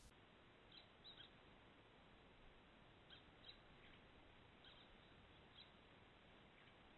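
Faint, short, high chirps of a small bird, about eight scattered at irregular intervals, over the steady hiss of a trail camera's microphone.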